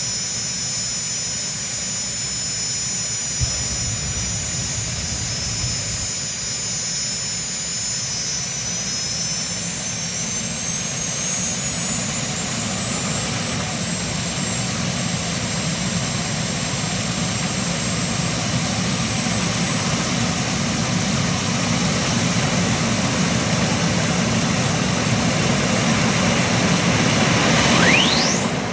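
Pulling vehicle's engine under sustained full throttle, with a high whine that climbs in pitch, getting louder through the pull and dropping away at the very end.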